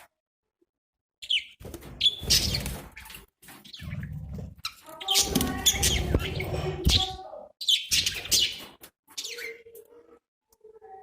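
Budgerigars chirping and warbling in several bursts, separated by brief silences.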